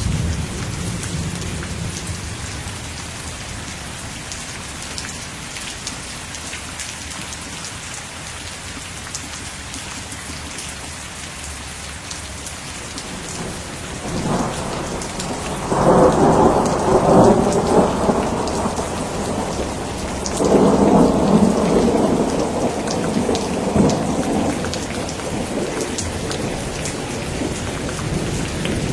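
Steady rain with thunder: a low rumble at the start, then two louder rolls of thunder in the second half, each lasting a few seconds.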